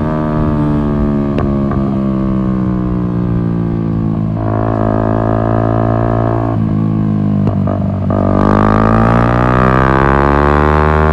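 Yamaha MT-125's single-cylinder 125 cc engine through an Akrapovic exhaust while riding: revs falling off slowly, holding steady for a couple of seconds, then louder and rising in pitch as the bike accelerates again near the end.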